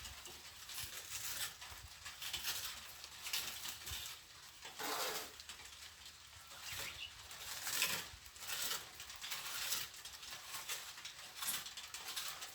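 Plastering trowel scraping and spreading mortar in irregular strokes, about one a second.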